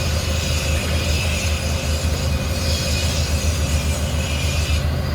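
Steady low machine rumble with a crackling hiss over it; the hiss cuts off suddenly near the end while the rumble keeps going.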